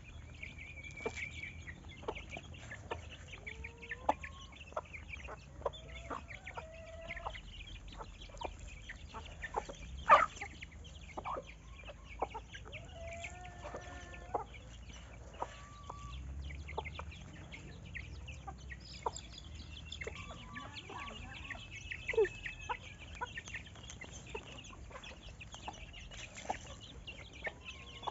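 Chickens clucking: short, bending calls come and go all through, over frequent small clicks and knocks, with one sharper knock about ten seconds in.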